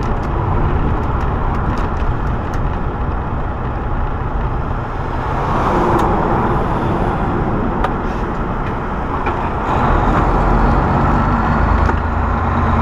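Semi truck driving at highway speed: steady engine and road noise.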